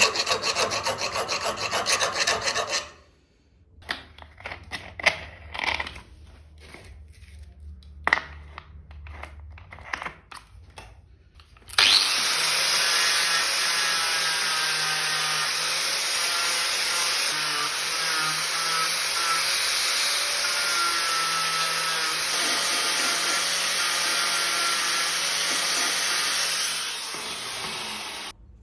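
Steel being worked by hand: a file rasping in quick strokes, then scattered lighter scrapes and taps. About twelve seconds in a power tool starts and runs steadily until shortly before the end.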